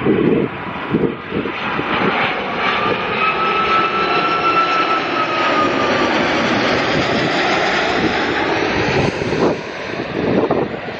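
Airbus Beluga XL's twin Rolls-Royce Trent 700 turbofans running as it lands: a steady jet roar with a high whine that bends up and then down in pitch in the middle. Wind buffets the microphone at the start and near the end.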